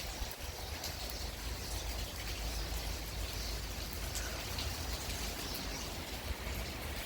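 Rain falling steadily, with many scattered drops ticking, over a low rumble underneath.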